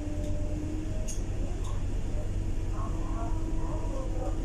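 Inside a Scania K230UB bus under way: the engine's low drone with a steady whine that drops out for about a second near the start, with passengers' voices in the background.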